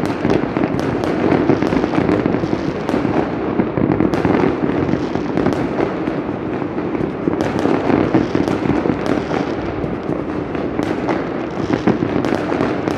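Dense, continuous fireworks and firecrackers going off all around, a rolling wash of bangs and crackling with many sharp reports overlapping and no pause.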